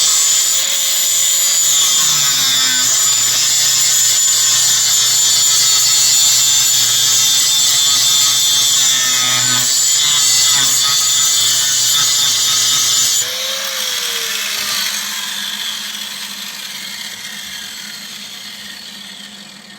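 A power tool's motor running steadily with a loud, high whine. It cuts down abruptly about 13 seconds in, then fades away over several seconds.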